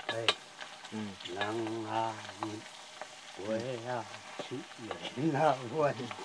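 Food frying and sizzling in a metal pot over a wood fire, stirred with a wooden spatula that knocks against the pot now and then, the sharpest knock just after the start. A low man's voice runs through it in three stretches of long, wavering held tones.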